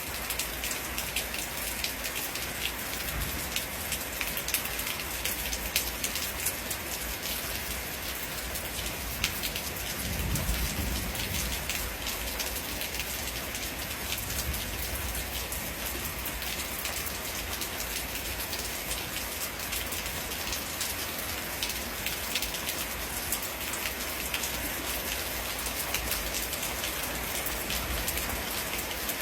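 Steady rain falling with a dense patter of individual drop hits. About ten seconds in there is a brief low rumble of distant thunder.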